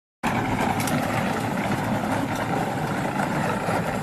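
A vehicle engine idling steadily, starting a moment in.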